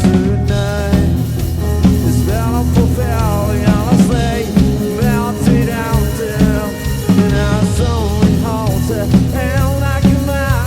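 A rock band playing live: a drum kit keeps a steady beat under bass and a melody line that bends and wavers in pitch.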